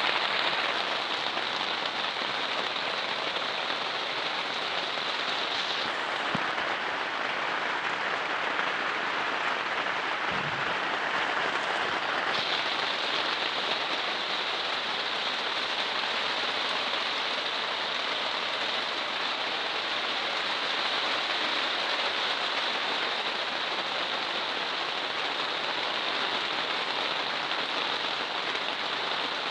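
Heavy rain falling steadily on the polythene cover of a polytunnel, a dense, even hiss of drops.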